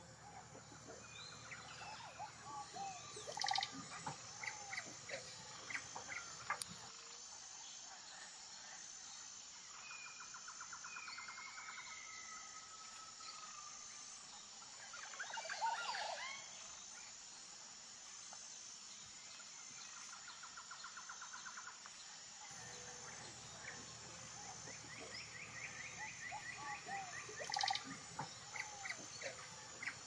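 Birds chirping and calling, with many short chirps, several rapid trills, and a louder burst of calls about halfway through.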